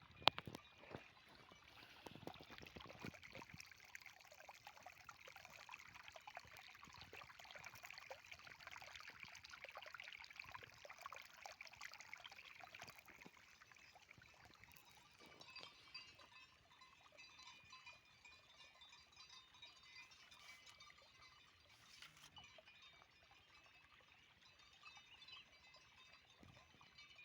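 Faint trickling of flowing water, fuller in the first half, with a few light knocks near the start.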